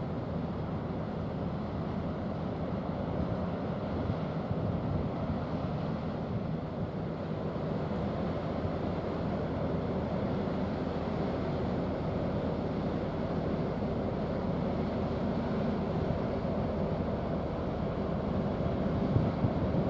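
Low, steady drone of a container ship's engine under way, over wind and water noise, growing slightly louder, with a couple of brief knocks near the end.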